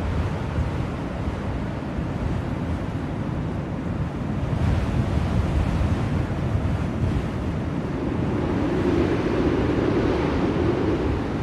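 Blizzard wind blowing as a steady, dense rushing noise, swelling somewhat louder about eight seconds in.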